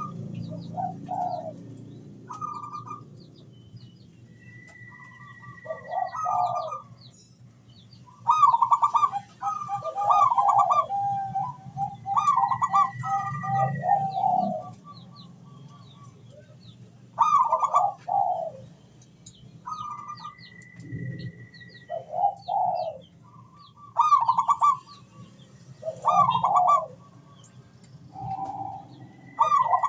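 Zebra dove (perkutut) cooing: short phrases of rapid staccato coos, repeated every second or two with a few longer pauses. Small birds chirp faintly higher up.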